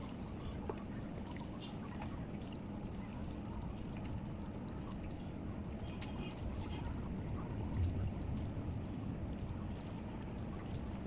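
Aquarium water trickling steadily.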